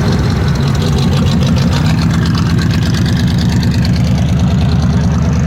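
Car engine running at low revs with a loud, steady exhaust rumble.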